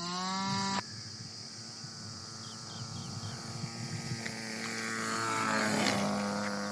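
7.5 cc IC engine of an RC model plane running in flight, a buzzing stack of tones. Its pitch climbs and then breaks off abruptly just under a second in, holds steady, and swells louder with a falling pitch around five to six seconds in, as the plane passes by.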